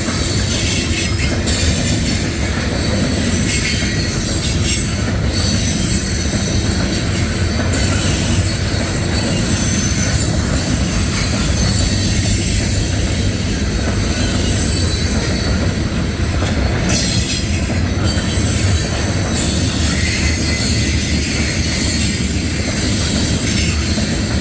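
Loaded coal cars of a long freight train rolling past at close range: a steady heavy rumble and clatter of wheels on rail, with a thin high squeal from the wheels.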